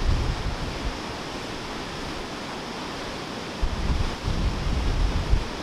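Steady heavy rush of floodwater pouring down over a dam spillway. From a little over halfway through, gusts of wind buffet the microphone with a low rumble.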